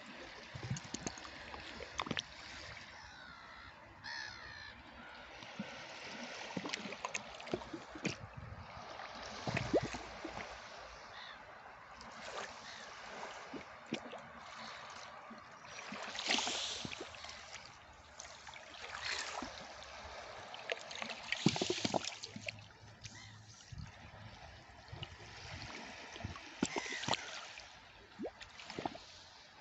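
Sea water washing and splashing along the shore, in uneven surges with many small splashes and clicks, with birds calling over it.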